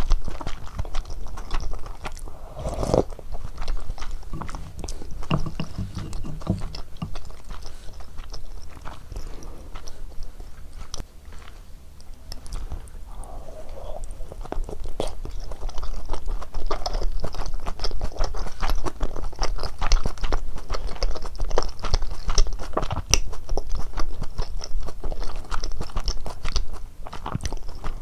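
Close-miked eating sounds of cheese ramyeon with dumplings: steady chewing with many small wet clicks and crunches.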